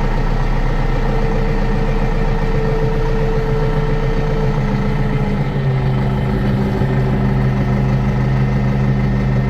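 Tractor engine running steadily close by, its note dropping slightly and getting deeper about halfway through.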